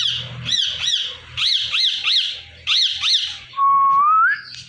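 Ringneck parrot calling: a quick series of short, arched chirps, about two or three a second. About three and a half seconds in comes a louder, longer whistled note that rises in pitch.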